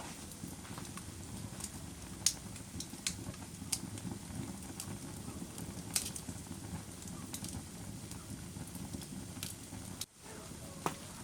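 Wood fire in a fireplace crackling, with sharp irregular pops over a steady low rumble of the flames. The level briefly drops out about ten seconds in.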